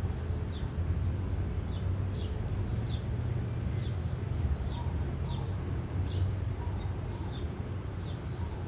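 Bird chirping: short, high, falling chirps, about two a second, over a steady low hum.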